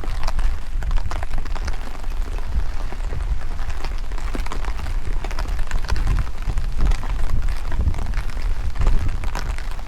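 Rain falling, with many scattered drop hits, over a steady low rumble of strong wind buffeting the microphone.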